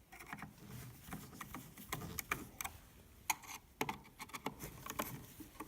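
Scattered, irregular light clicks and knocks of wood being handled as a wooden clamp is fitted over a drill on a homemade lathe.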